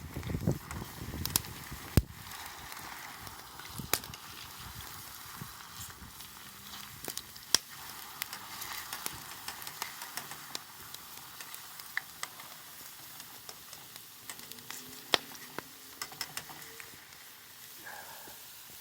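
Wood campfire crackling: scattered sharp pops over a steady hiss.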